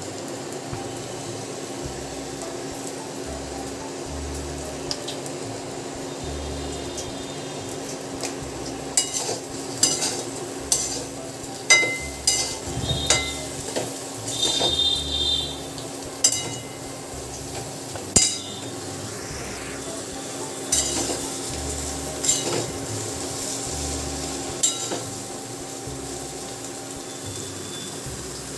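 Kitchen work: metal utensils clinking and scraping against steel pots and dishes, a series of sharp clinks, some of them ringing, bunched in the middle, over a steady hum and faint sizzling of food frying.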